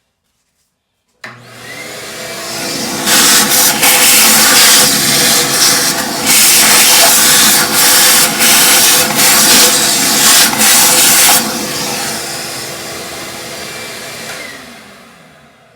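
A vacuum cleaner is switched on about a second in and runs up to speed, sucking up crud scraped loose during the toilet repair. Its loud sucking noise rises and dips unevenly for about eight seconds. The level then drops, and the motor winds down to a stop near the end.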